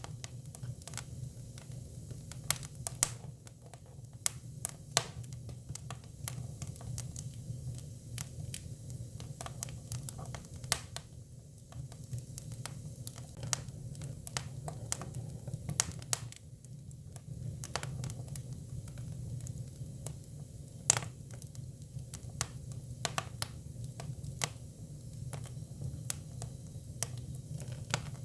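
Japanese cypress (hinoki) firewood burning: irregular crackles and pops, a few sharper and louder than the rest, over a steady low rumble.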